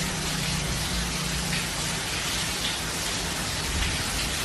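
Steady hissing noise with a low steady hum underneath.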